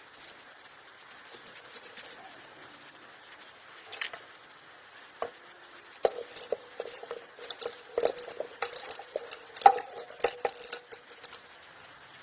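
Hand tools clinking and tapping on metal parts of a Lister SR3 diesel engine being dismantled. Faint handling at first, then a run of sharp metallic knocks about halfway through, several of them leaving a short ringing note.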